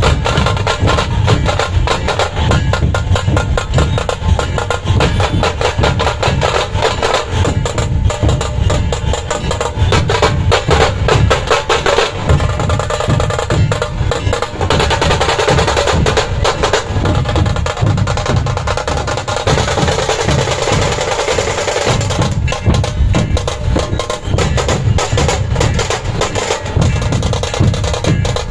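Dhol-tasha ensemble drumming: deep dhol beats under fast, sharp rolls of the tasha drums, loud and continuous.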